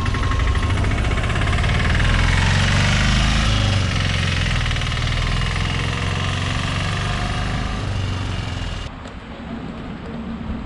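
Car on the move: steady engine and tyre rumble with road hiss. Near the end the hiss drops away suddenly and the rumble quietens.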